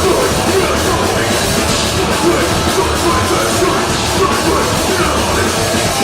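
Deathgrind band playing live and loud: a dense, unbroken wall of distorted guitar, bass and drums.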